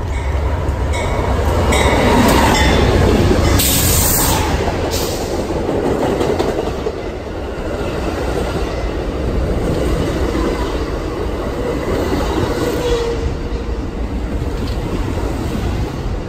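A train passing close by: a steady, heavy rumble of railcar wheels on the rails, with several sharp clicks in the first few seconds. It is loudest about two to four seconds in.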